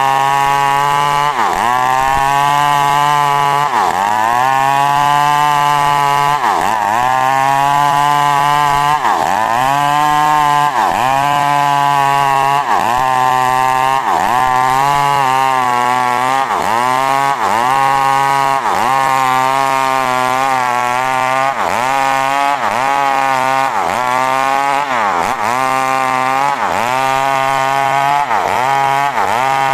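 Two-stroke chainsaw running hard while cutting coconut wood, its engine pitch repeatedly dipping and recovering, about every second or two, as the chain bites and frees.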